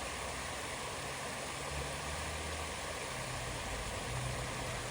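Creek water running steadily, with a low hum underneath that shifts slightly in pitch a couple of times.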